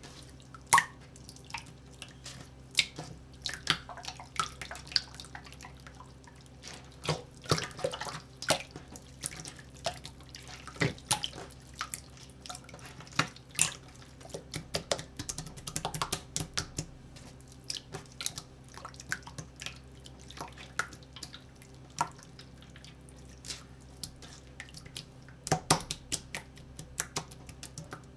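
Slime being squeezed and poked by hand, giving irregular wet clicks, pops and squishes, some in quick clusters, over a faint steady hum.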